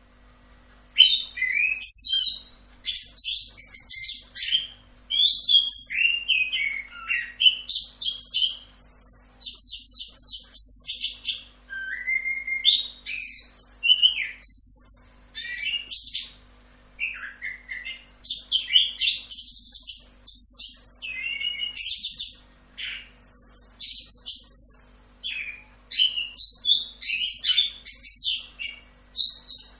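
Orange-headed thrush singing a fast, continuous rolling song of varied whistles and chirps. The song starts about a second in and has only brief pauses.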